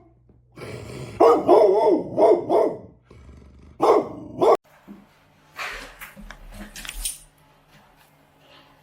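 A dog barking and vocalizing in a run of pitch-bending calls, then a shorter burst that cuts off abruptly about four and a half seconds in; fainter scattered sounds follow.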